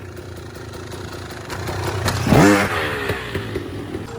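Motorcycle engine running, then revving up sharply with a quick rise in pitch about two seconds in before settling back.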